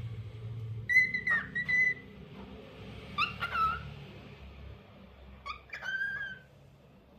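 Lutino cockatiel whistling short tune phrases in three groups: held whistled notes about a second in, quick chirped notes around three seconds, and more whistled notes near six seconds.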